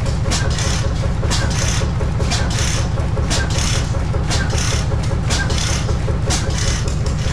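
An old engine running steadily, with a rhythmic mechanical clacking in pairs about once a second.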